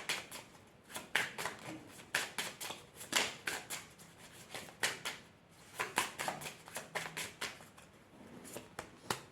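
Oracle cards being shuffled by hand: a run of quick, irregular crisp flicks and slaps of card stock.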